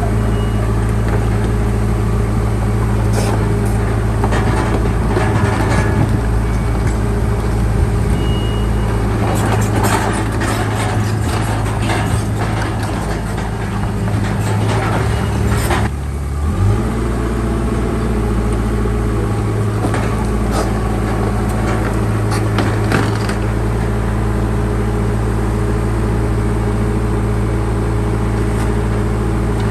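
Bulldozer's diesel engine running under load, with repeated metal clanks and rattles. About halfway through the engine note dips briefly, then picks up again.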